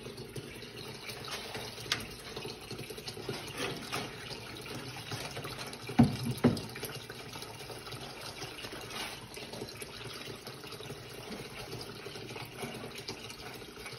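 Water running steadily, with two sharp knocks about six seconds in.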